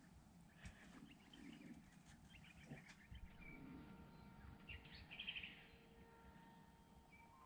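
Faint bird calls and chirps over quiet ambience, with a short rapid trill about five seconds in.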